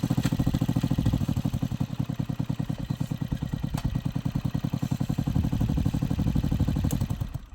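Motorcycle engine idling with a steady, rapid, even beat, then cutting off abruptly near the end.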